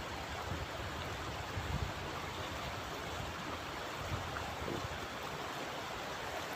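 River water flowing over a shallow, stony bed: a steady, even rushing.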